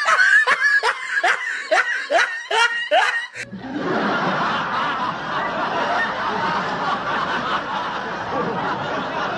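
Laughter: a rapid run of short, falling 'heh-heh' snickers, about three a second, lasting about three seconds. After that, a dense, steady wash of crowd laughter takes over.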